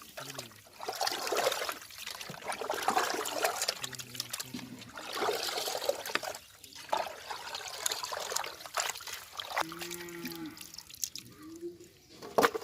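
Water splashing and trickling as cut raw chicken pieces are rinsed by hand in fresh water, with small knocks and splashes throughout.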